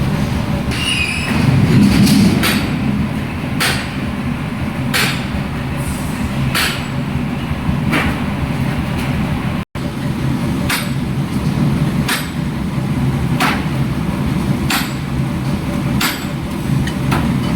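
Sledgehammer blows on a truck's steel ball joint, a sharp metallic strike about every second and a half, over a steady low rumble.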